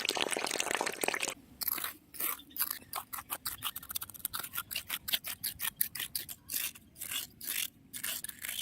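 Scraping by hand: about a second of continuous rasping, then a quick run of short scraping strokes, roughly four a second.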